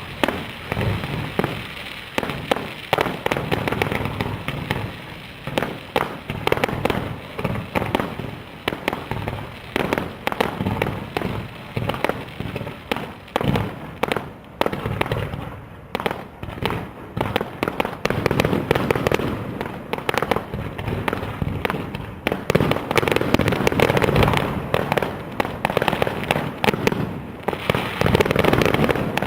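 Fireworks display: a rapid, unbroken run of sharp bangs and crackling bursts, growing denser and louder in the second half.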